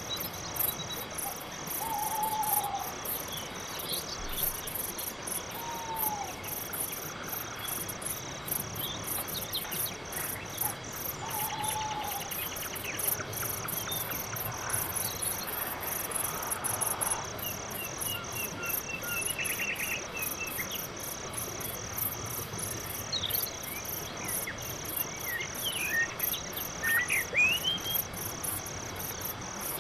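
Crickets chirping in a steady, even pulse, about two chirps a second, with a few short scattered calls over them, some lower and curved, and a cluster of higher quick chirps near the end.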